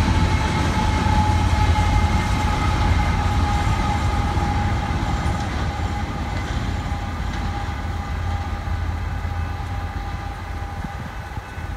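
Two BNSF diesel locomotives, the rear distributed-power units of a loaded coal train, rumble past over the rails and fade away. A steady high whine rides over the rumble and slowly drops in pitch as they recede.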